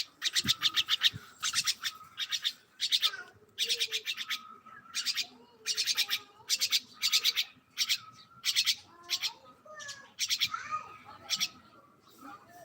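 Bird calling in a string of short, rapid chattering bursts, each a fast run of sharp, high notes lasting under a second, repeated over and over with brief gaps.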